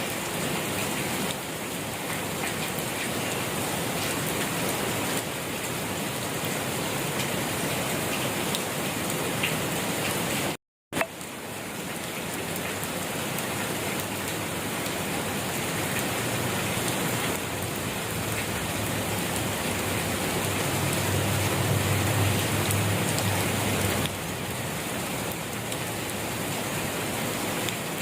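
Steady rain falling, an even dense patter. It cuts out completely for a split second about ten seconds in, and a low rumble swells in the second half before easing off.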